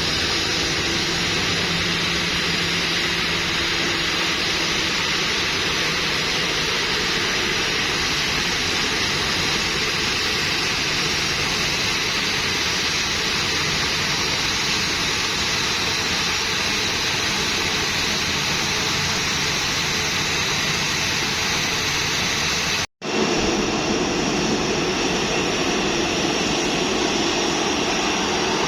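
Jet airliner engines running, a steady loud rush with faint even tones underneath. The sound drops out for an instant about 23 seconds in, then carries on unchanged.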